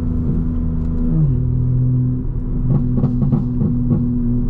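Straight-piped BMW M4 Competition's twin-turbo inline-six running steadily at cruise. Its pitch drops about a second in, and a brief run of short sharp pops comes around three seconds in.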